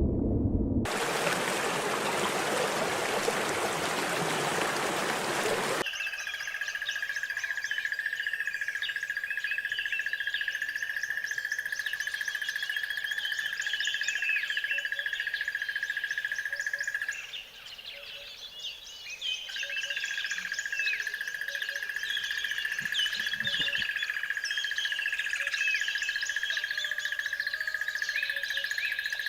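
A flock of small birds chirping and calling all at once, a dense run of short high chirps over a steady high-pitched drone that drops out briefly in the middle. For the first few seconds there is only a rushing noise.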